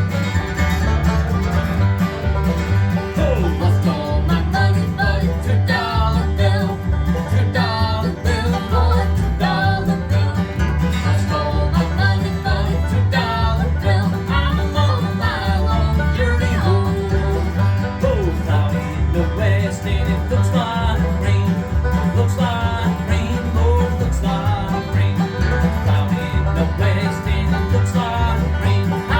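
Bluegrass band playing live, with banjo and guitar picking over a steady, bouncing bass beat.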